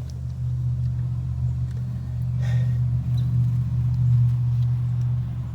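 An engine running with a steady low rumble that grows louder in the middle and eases off near the end.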